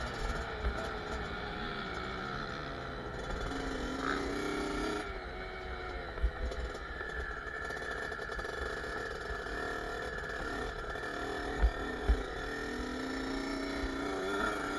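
Kawasaki KX65's small two-stroke single-cylinder engine running, its pitch rising and falling as the throttle is worked. A few short thumps cut through, two close together about twelve seconds in.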